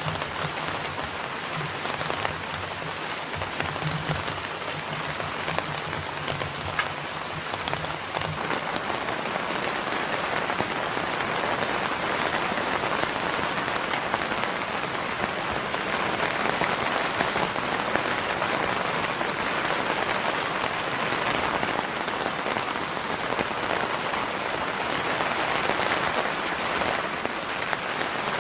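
Steady rain falling, a dense even patter throughout. A low hum sits underneath for the first eight seconds or so, then stops.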